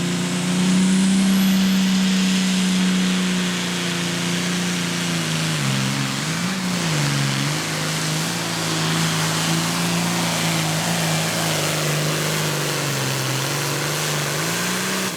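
Pulling tractor's engine at full throttle during a hook, a loud, steady high-rev note with heavy noise. The pitch sags and recovers twice about six seconds in, then holds steady until the end.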